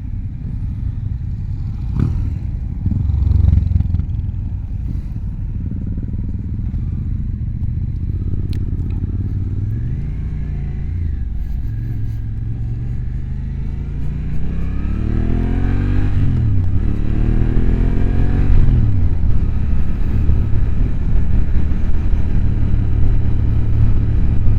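Motorcycle engine under way, accelerating hard: its note climbs and drops a few times as it goes up through the gears, then runs loud and steady near the end.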